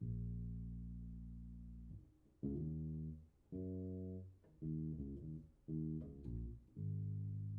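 Electric bass, tuned down a half step, played through a Fender Rumble 100 V3 combo amp: a long ringing low note, then a run of about five plucked notes, each ringing about a second, and another long held note near the end.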